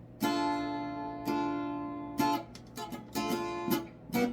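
Acoustic guitar playing chords: two long ringing strums, then a quicker run of shorter strokes.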